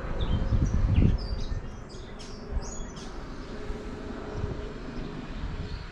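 Birds chirping in short, high calls for a couple of seconds over a low rumble, which is loudest about a second in.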